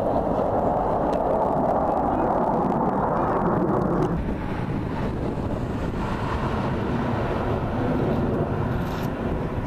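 Aircraft engine noise, a steady loud rush that eases off about four seconds in, with wind on the microphone.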